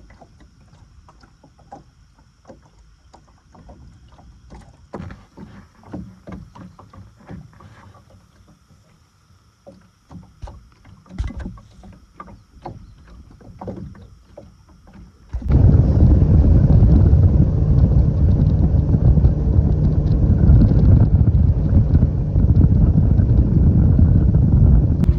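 Scattered light knocks and clicks in a small fishing boat, then about 15 seconds in a boat motor comes on suddenly and runs loud and steady, a low rumble that holds to the end.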